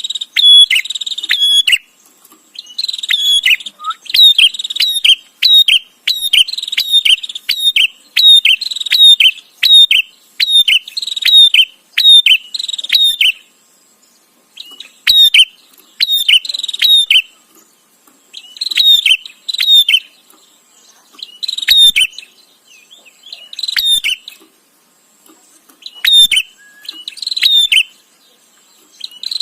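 Prinia (prenjak) giving its rapid, chattering call in repeated bursts of a second or two, separated by short pauses, with a faint steady high tone beneath.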